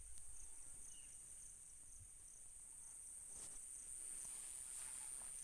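Insects, most likely crickets, chirping faintly outdoors: a steady high trill with rows of short pulsed chirps just below it.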